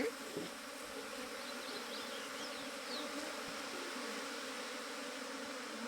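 A swarm of honeybees buzzing steadily in a dense, even hum.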